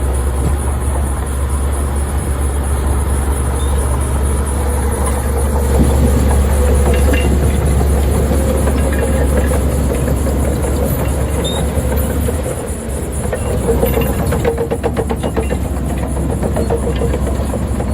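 Heavy diesel earth-moving machinery running with a steady low rumble, and a rapid metallic clatter for a few seconds near the end.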